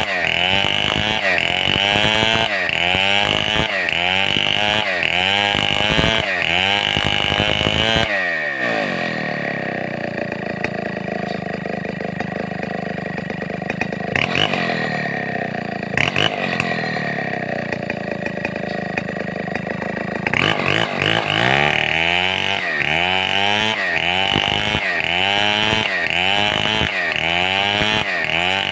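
Stihl 070 two-stroke chainsaw running hard, its engine speed rising and falling about once a second. About eight seconds in, the pitch drops to a steadier, lower speed; some twelve seconds later it picks back up into the same surging cycle.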